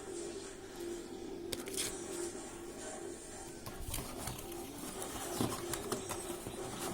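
Small electric motor of an HX 713 toy RC helicopter running with a steady hum that wavers in and out, with a few scattered clicks and knocks.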